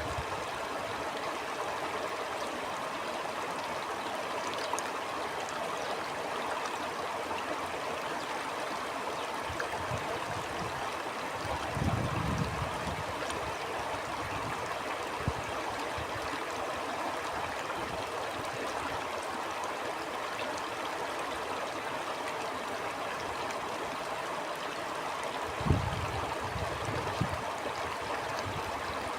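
Stream flowing steadily with an even rushing sound, and two brief low rumbles, one near the middle and one near the end.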